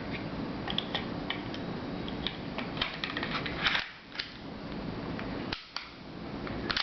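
Light metal clicks and scrapes of a Glock 27's slide and recoil spring being worked back onto the frame by hand, a scatter of sharp clicks with a denser cluster about three seconds in.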